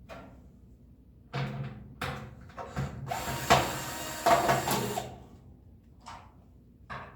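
Power drill-driver backing screws out of a toaster oven's sheet-metal shell: a few short bursts, then a steady run of about two seconds.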